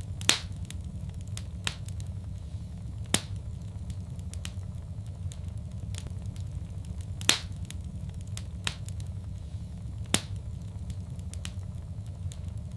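Fireplace fire crackling: a steady low rumble of burning with sharp, irregular pops. The loudest pops come about a third of a second in and a little after seven seconds, with fainter snaps between.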